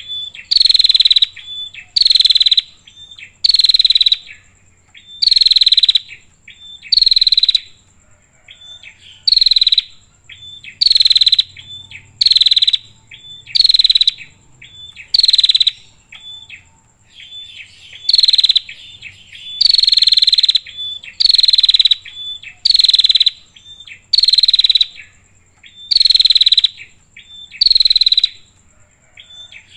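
Female prinia (prenjak) calling over and over: loud calls about once a second, each dropping in pitch, in runs broken by short pauses, with softer clipped notes between them. A faint steady high whine runs underneath.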